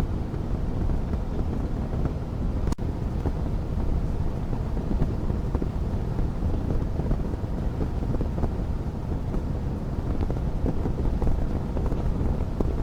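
Wood fire burning in a fireplace: a steady low rumble of flames with frequent small crackles and pops, and one sharp click a little under three seconds in.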